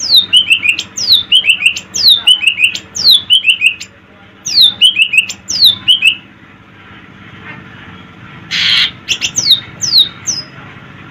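Greater green leafbird singing: loud, sharp whistles that each slide steeply downward, given in quick phrases of two or three, about two a second. After a pause comes a short harsh note, followed by a few more sliding whistles.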